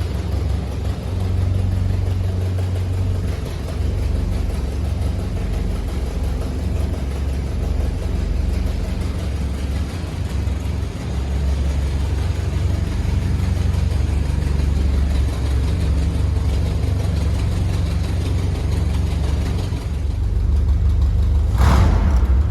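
A car engine running steadily with a deep, low note. Near the end it gives a sharp, louder burst.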